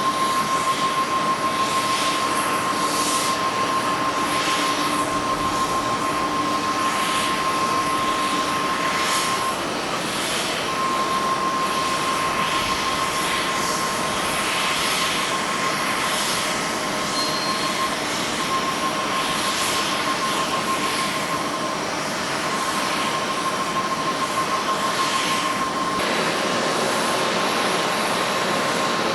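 Boeing 747-8's four turbofan engines, a steady jet rush with a constant high whine, swelling and easing irregularly as the jumbo comes in to land.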